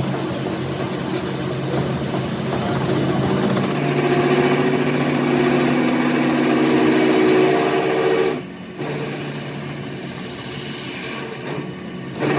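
A motor-driven machine running steadily with a humming drone, its sound dropping abruptly and changing about eight seconds in.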